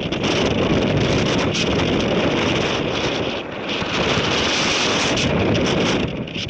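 Strong wind buffeting the microphone, a loud, continuous rush that eases briefly a couple of times between gusts.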